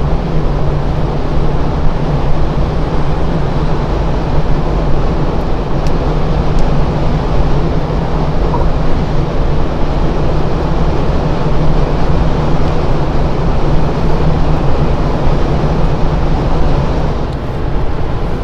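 Mercedes-Benz S580 at high autobahn speed, heard from inside the cabin: steady tyre and wind noise with a constant low drone underneath, unchanging throughout.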